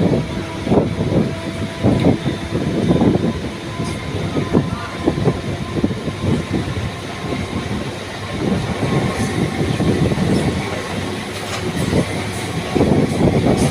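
MEMU electric multiple unit train running along the track, its wheels knocking over the rail joints in an uneven run of clanks, with a few faint steady tones above.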